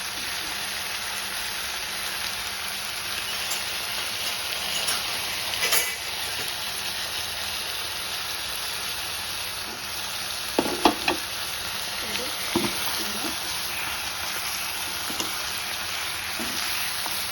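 Chicken pieces in masala sizzling steadily as they fry in a covered pan. A few brief knocks stand out, mostly about two-thirds of the way through.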